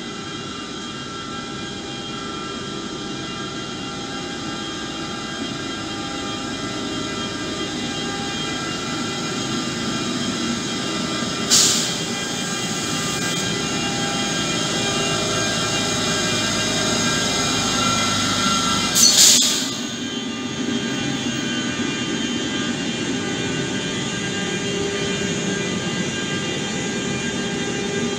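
Freight train headed by two electric locomotives, an E.483 and a Vectron, rolling past at close range with several steady whining tones over a rumble that slowly grows louder. Two brief sharp noises come about twelve and nineteen seconds in.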